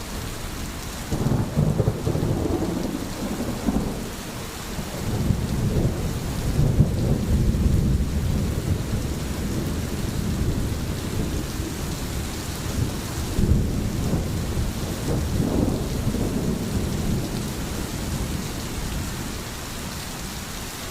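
Steady rain with thunder rumbling low, swelling about a second in, again from about five to nine seconds, and once more around fifteen seconds.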